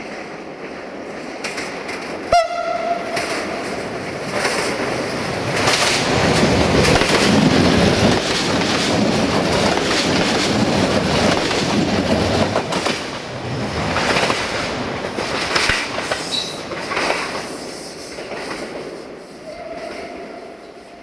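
Diesel multiple unit passenger train passing close: a short horn note about two seconds in, then a loud passage of engine noise and wheels clicking over rail joints, fading as the train goes away.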